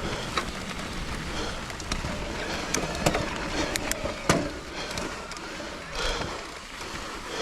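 Mountain bike (2021 Trek Rail 9.7) riding down a loose gravel trail: continuous tyre crunch and rattle of the bike. Several sharp knocks as it hits bumps, the loudest about four seconds in.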